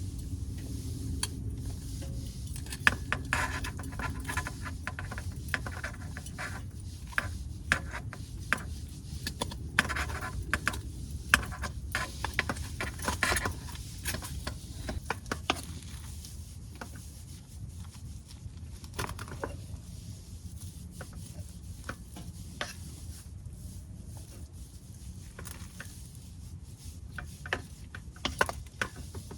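Cooking utensils clinking and scraping against pots and pans in irregular clicks, busiest in the first half, over a steady low rumble.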